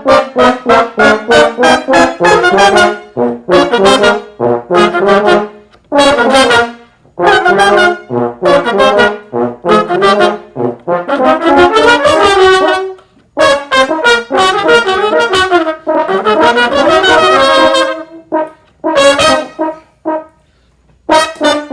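Solo, unaccompanied brass instrument playing fast runs of short notes in phrases, with brief pauses between the phrases and a longer one near the end.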